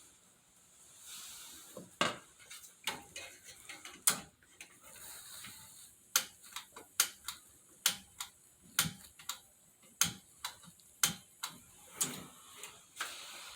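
A run of sharp, irregular clicks and light knocks, roughly one or two a second, starting about two seconds in: hand tools and metal parts being handled on a boiler.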